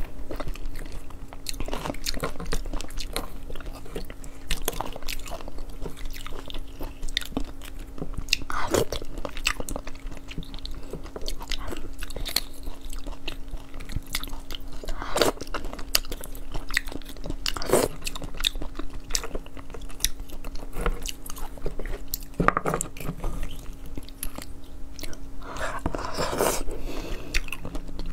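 Close-miked eating: chewing of soft bone marrow, with scattered clicks and scrapes of a small metal spoon against pieces of roasted marrow bone. A steady low hum runs underneath.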